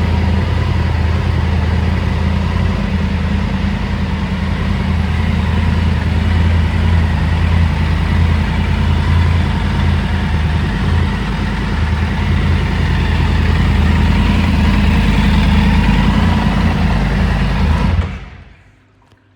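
Triumph Tiger 900 Rally Pro's inline three-cylinder engine idling steadily through a MIV aftermarket exhaust, then switched off about 18 seconds in, the sound dying away quickly.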